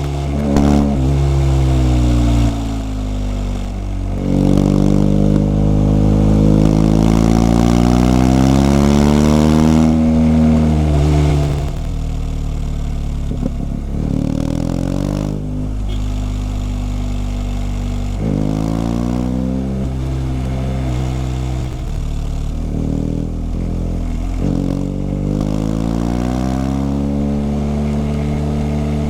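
BMW R 1250 GS Adventure's boxer-twin engine accelerating through the gears: its pitch climbs, drops at each shift, then climbs again. The longest and loudest pull runs from about four to eleven seconds in, followed by several shorter accelerations.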